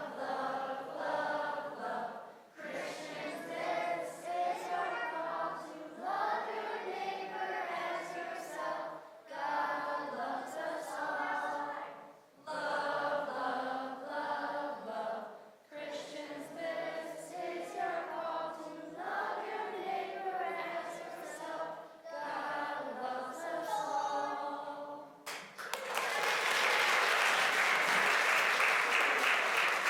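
A group of children and adults singing a song together without accompaniment, in phrases separated by short breaths. About 25 seconds in the singing ends and applause breaks out.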